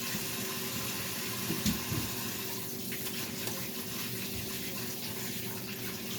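Kitchen sink faucet running steadily as hands are washed under it, with one low knock about a second and a half in.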